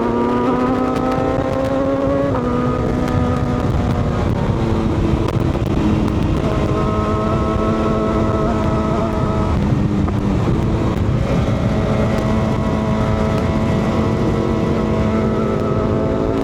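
Motorcycle engine under way, its note climbing and then dropping back about two seconds in and again near ten seconds, as with gear changes, over steady wind and road noise.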